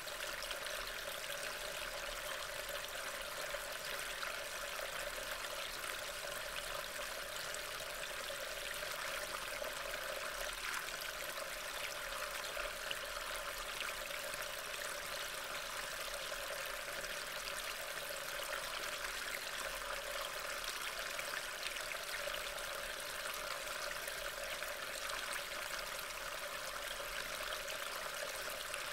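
Steady rain, picked up as an even hiss by a trail camera's small built-in microphone.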